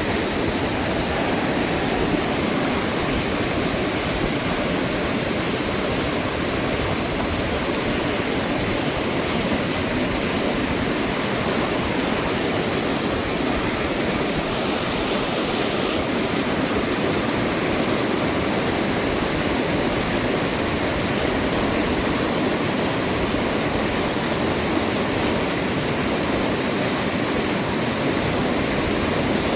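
Fast-flowing, rising river water rushing steadily, a constant dense noise of moving water.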